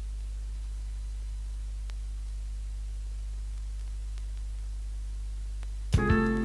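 Steady low electrical hum with faint hiss and a few faint ticks in the gap between album tracks. Near the end the next track's music starts abruptly.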